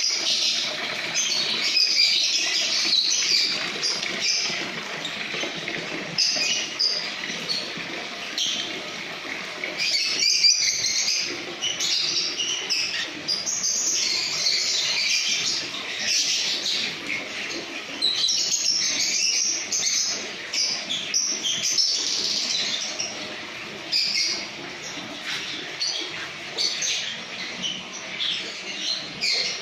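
A colony of lovebirds chattering and chirping without pause, many shrill calls overlapping: the long, strong 'ngekek' song that lovebird keepers prize.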